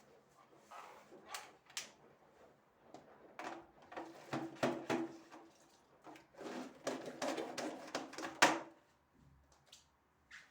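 Household handling noises: irregular clicks, knocks and rustling as things are moved and set down, with the sharpest knock about eight and a half seconds in.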